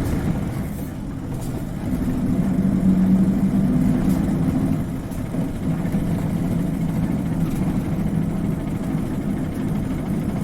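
Isuzu Cubic KC-LV380N city bus engine running, heard from inside the bus, with a steady low drone that grows stronger about two seconds in.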